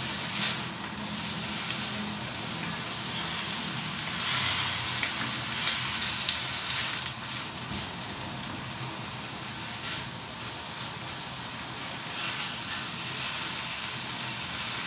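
Vegetables and shrimp sizzling in a wok while a spatula stirs them, with a few short, louder scrapes of the spatula against the pan.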